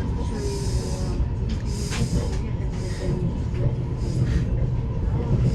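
Steady running rumble inside a Lastochka (Siemens Desiro RUS) electric train carriage under way, with a faint steady whine and soft swells of rail hiss.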